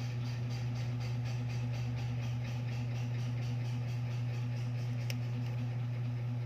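Steady low mechanical hum of a running motor or appliance, with a fast, even pulsing of about four to five beats a second on top.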